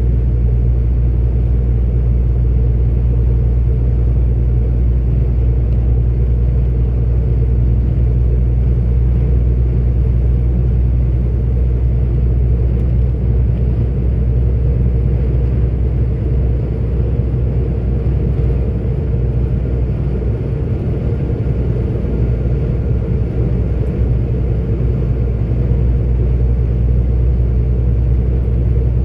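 44-ton articulated truck's diesel engine and road noise while cruising: a steady, loud low drone. It eases off slightly for a few seconds in the middle.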